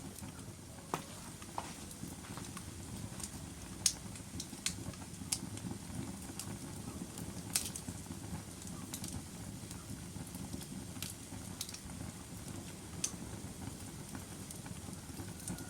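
Log fire burning in a fireplace: a steady low rumble of flames with scattered sharp crackles and pops. The two loudest pops come about 4 and 7.5 seconds in.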